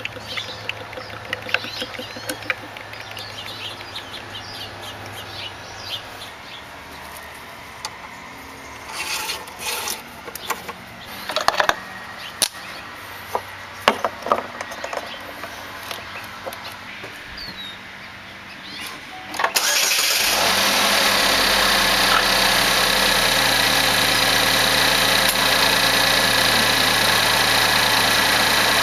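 GMC Terrain engine starting about two-thirds of the way in, then running steadily at idle after its oil change. Before it, scattered clicks and knocks.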